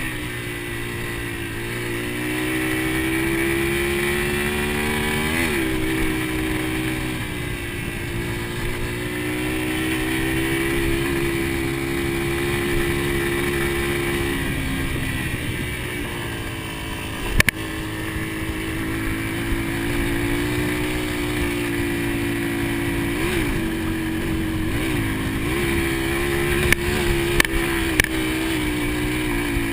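Dirt bike engine running with varying throttle, its pitch drifting up and down, with a quick rev about five seconds in and three in quick succession later on. A few sharp knocks cut in, one near the middle and several near the end.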